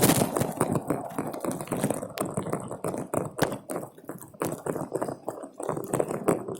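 Irregular close-up taps and knocks at an uneven pace, with the loudest hit right at the start.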